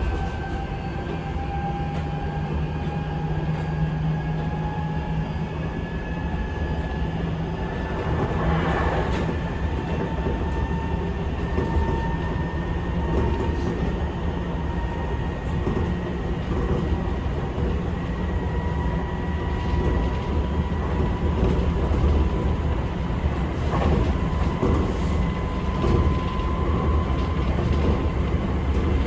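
Seibu 6000 series electric train running, its Mitsubishi SiC-VVVF traction motors giving a whine that rises slowly in pitch as the train gathers speed. Under it is a steady low rumble, with occasional clicks of the wheels over rail joints.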